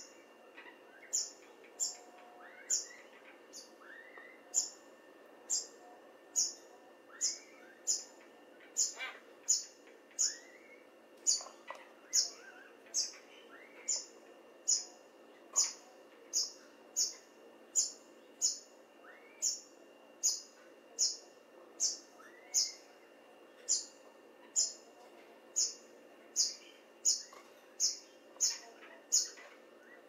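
A bird calling with short, sharp, high chirps, repeated steadily about three every two seconds. Fainter, lower rising calls of other birds come in now and then.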